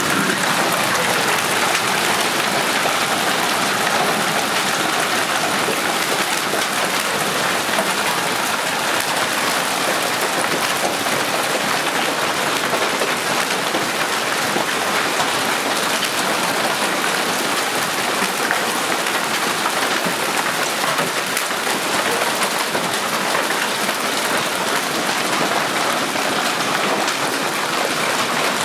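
Golf-ball-sized hail coming down hard in a storm: a dense, steady clatter of countless impacts.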